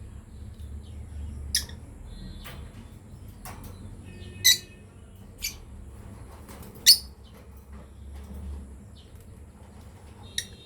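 Lovebirds chirping: a handful of short, sharp, high-pitched calls spaced irregularly a second or more apart, the loudest two about four and a half and seven seconds in.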